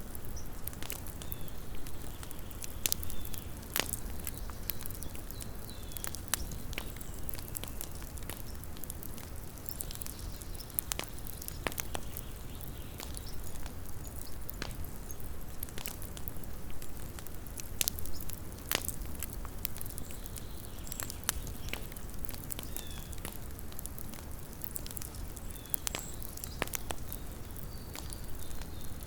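Small wood campfire crackling, with irregular sharp pops and snaps over a soft steady low rumble.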